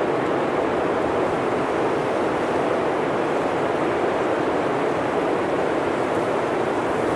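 Blizzard wind blowing steadily through a forest, a deep, even rush with no gusts or breaks.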